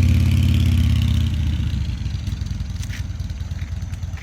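2016 Harley-Davidson Ultra Glide's V-twin engine running steadily at a raised speed, then dropping back a little over a second in to a quieter, uneven idle.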